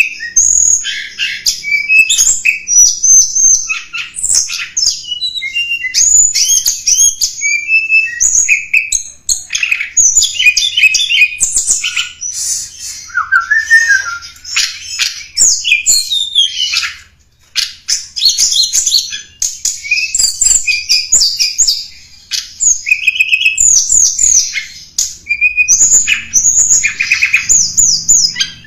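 Tledekan gunung songbird singing a rapid, varied run of high chirps, trills and sweeping whistles with only short pauses. It is a lure call used to draw in wild tledekan.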